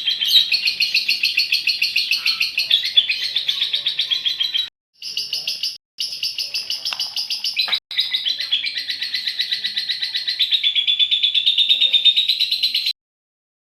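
Female lovebird giving its long, continuous 'ngekek' chatter: a rapid run of shrill, evenly repeated notes, about ten a second. It breaks off briefly a few times and stops abruptly about thirteen seconds in.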